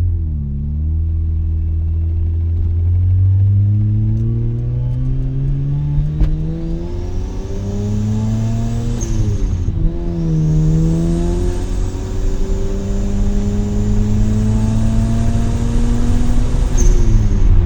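Mazda RX-7's two-rotor rotary engine through an RE Amemiya Dolphin Tail 90 curl exhaust, heard from inside the cabin with the windows down, accelerating through the gears. The pitch climbs steadily and dips at gear changes about half a second in and about ten seconds in, then climbs again until another shift near the end.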